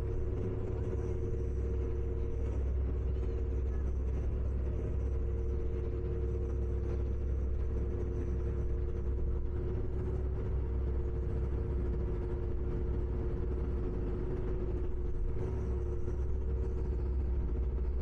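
Ferry engine running steadily: a constant deep rumble with an even, two-note hum over it.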